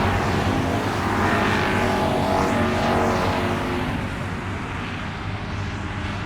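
A car driving, with engine and road noise that eases off a little after about four seconds.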